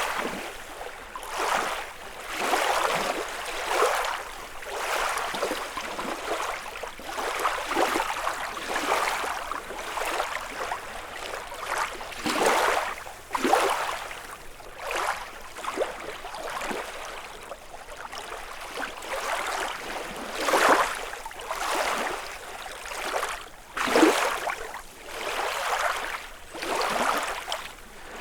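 Small lake waves lapping and splashing against the shore in an uneven rhythm, one wash every second or two.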